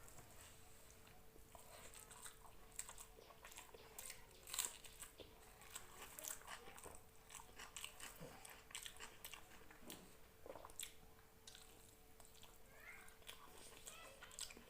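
Close chewing and mouth sounds of a person eating rice and chicken curry: many small irregular clicks and smacks, the loudest about four and a half seconds in. A faint steady hum lies underneath.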